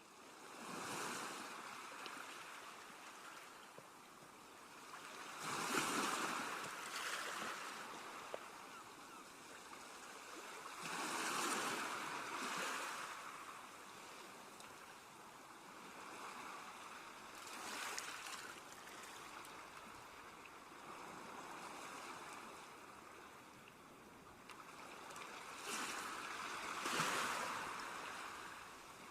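Ocean waves breaking and washing on the shore, each surge swelling and fading, about every five or six seconds.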